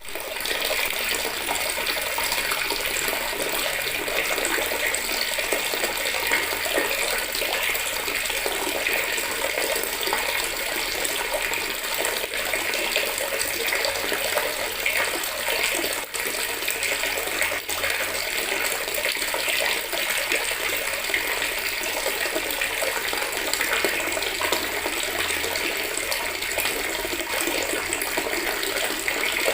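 Water running steadily from a tap into a plastic bucket, splashing and gurgling with no letup.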